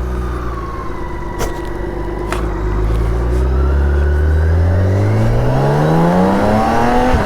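BMW K1600 GTL's inline-six engine accelerating: after a steady first couple of seconds, its note rises evenly in pitch, then cuts back sharply near the end, as at a gear change.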